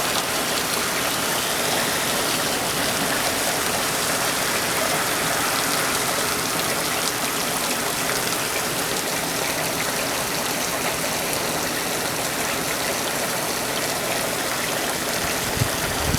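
Torrential rain falling in a steady downpour, with water gushing off gutters that are overflowing under the rainfall.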